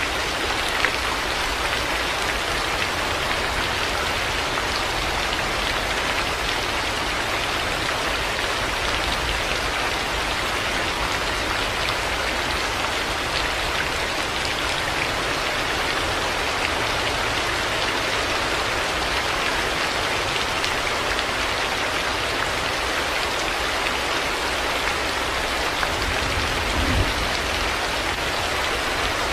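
Heavy rain falling steadily: a dense, even hiss with scattered louder drops. Near the end comes a brief low thump.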